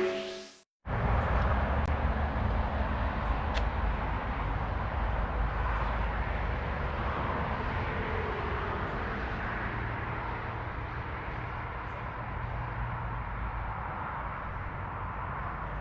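Steady low rumble with hiss, a field-recorded background noise that cuts in abruptly after a brief gap and stays steady, easing slightly in level.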